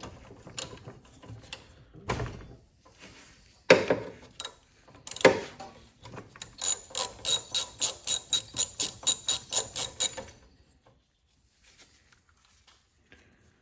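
Socket ratchet wrench clicking in an even run, about five clicks a second, as a spark plug is unscrewed from a small mower engine. Several clunks of the tool being fitted come first.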